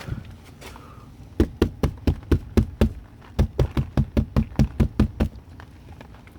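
Two runs of rapid, sharp knocks, about four a second, with a short pause between them. A single softer thump comes just before them.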